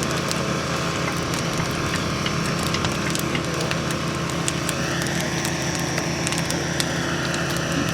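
Bonfire crackling: many scattered sharp snaps over a steady low rumble.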